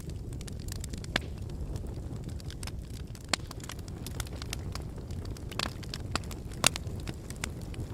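Wood fire burning in a brick fireplace: a steady low rumble with irregular sharp crackles and pops, the loudest pop about two-thirds of the way through.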